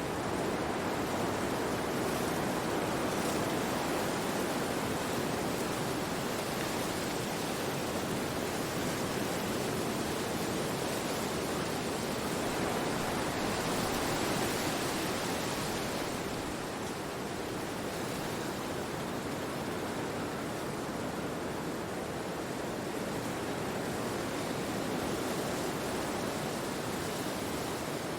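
Wind rushing through forest trees, a steady rustling hiss that swells a little about halfway through and then eases.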